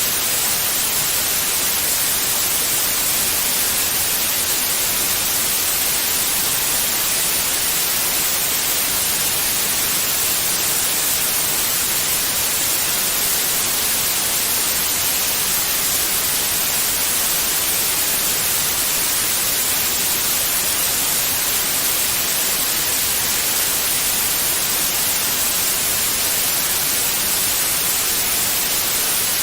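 Steady white noise: an even hiss without any tone or rhythm, strongest in the high frequencies, holding the same level throughout.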